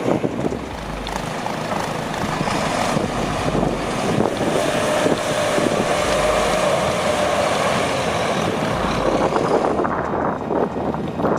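A heavy truck driving: steady engine and road noise with wind on the microphone, and a faint steady whine through the middle.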